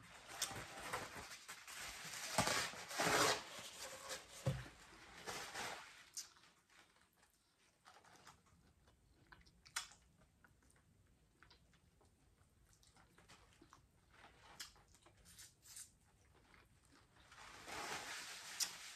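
A person chewing and eating fried croaker, with wet mouth noises, busiest over the first six seconds. Then come scattered faint clicks and smacks, and the chewing picks up again near the end.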